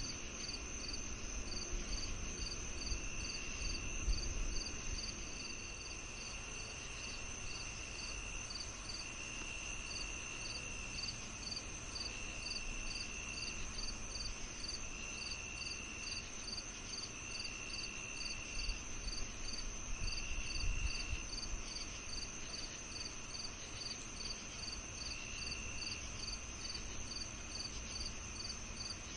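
A chorus of insects calling together: a steady high trill, a regular chirp two or three times a second, and a lower trill that comes in bursts of a second or two with short gaps between them.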